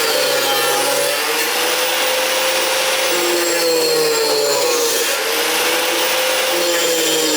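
Angle grinder with a cut-off wheel cutting slots in metal, the motor running steadily with a dense grinding hiss. Its pitch sags a couple of times as the wheel is loaded in the cut.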